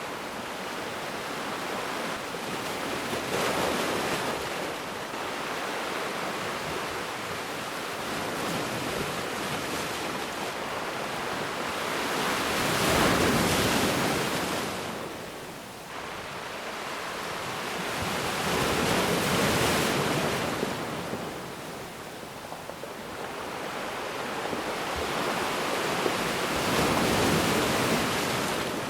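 Ocean waves breaking on a beach, a steady wash of surf that swells and falls back about every six to seven seconds.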